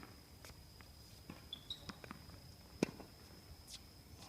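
Tennis ball being struck and bouncing on court: a series of sharp knocks at uneven intervals, the loudest about three seconds in, over a faint steady high whine.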